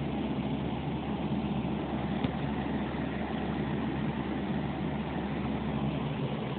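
Steady rain falling, heard as an even, unbroken rushing noise with a low rumble under it.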